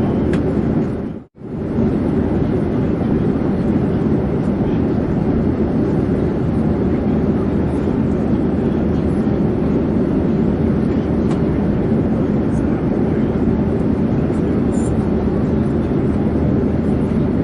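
Steady, even airplane noise, a constant deep rush of engines and airflow. It cuts out sharply for a moment about a second in, then carries on unchanged.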